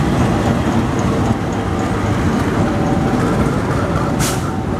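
A train running past close by, with a steady loud rumble of wheels on the rails. A short burst of hiss comes about four seconds in.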